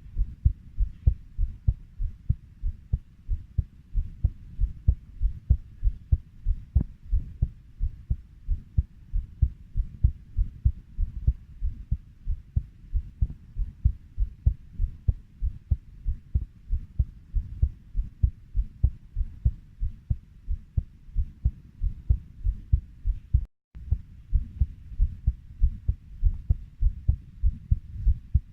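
Human heartbeat at about 90 beats per minute: a steady, even low lub-dub, broken once by a split-second dropout about three-quarters of the way through.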